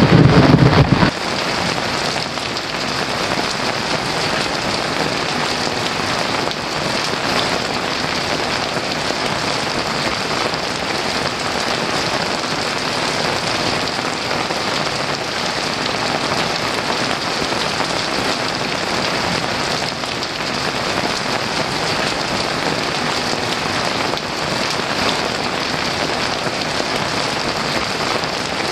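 Heavy rain falling steadily, with the tail of a low thunder rumble dying away about a second in.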